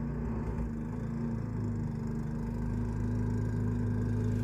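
A steady engine hum with a low, even pitch, growing a little louder toward the end.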